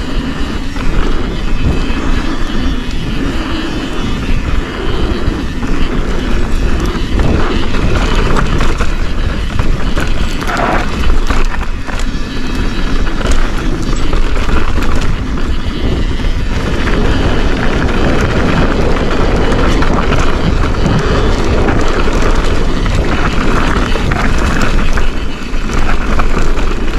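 Wind buffeting the camera microphone as a Forbidden Dreadnought full-suspension mountain bike rides downhill, with steady tyre noise on the dirt and frequent clattering knocks from the bike over bumps.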